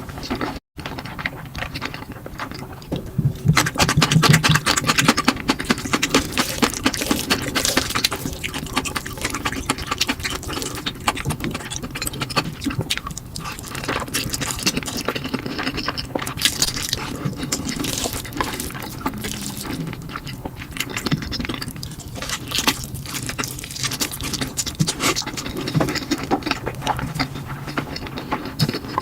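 Close-miked eating of spicy fire noodles: slurping and chewing, with many quick wet clicks and smacks. The sound drops out briefly about half a second in.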